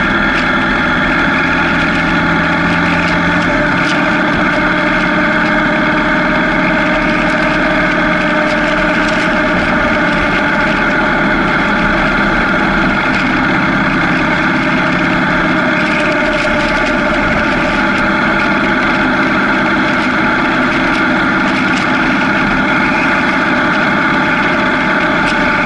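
Motorcycle engine running at a steady, unchanging speed close to the microphone.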